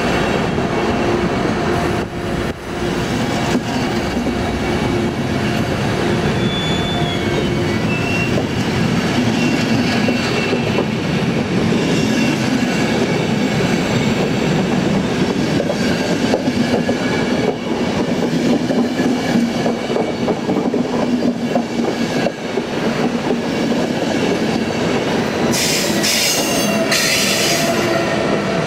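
Frecciabianca passenger train departing and its coaches rolling past close by: steady wheel-on-rail running noise with a low hum. A sharper high-pitched sound comes in near the end as the last vehicle goes by.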